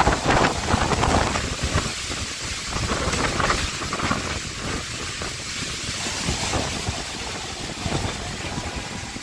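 Storm wind gusting with heavy rain, a steady rushing hiss with uneven low buffeting of wind on the microphone.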